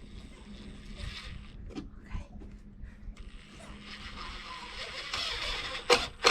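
Power drill driving screws into wood: a brief whir about a second in, then a longer steady whir that builds in level from about halfway. A sharp knock comes near the end.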